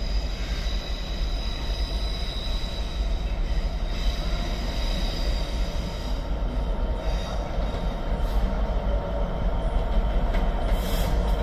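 Freight train wagons rolling past at speed, a steady heavy rumble with a thin high wheel squeal that fades out about halfway through.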